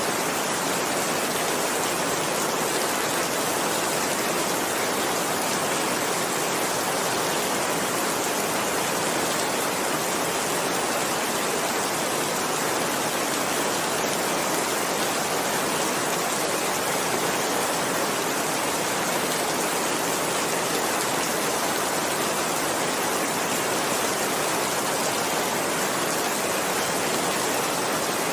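Steady heavy rain, an even unbroken hiss of downpour with no single drops or thunder standing out.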